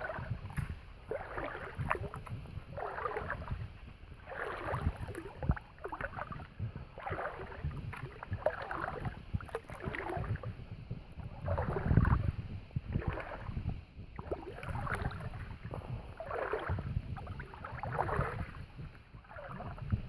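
Footsteps wading through a shallow river: water splashes and swishes with each stride, about one step a second, over a low rumble of wind on the microphone.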